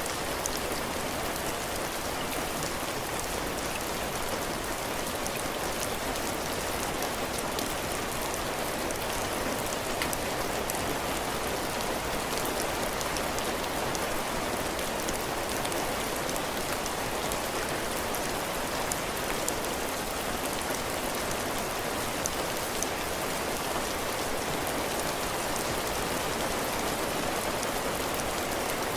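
Steady heavy rain falling on a cabin porch, raindrops pattering on the roof and ground with many small drop ticks over a constant hiss.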